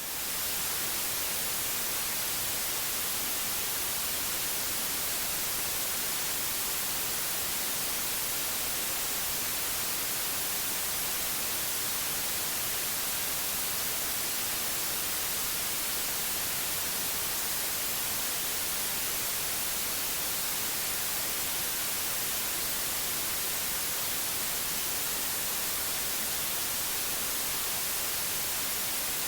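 Steady white noise: an even, unbroken hiss, brightest in the high end, with no changes or other events.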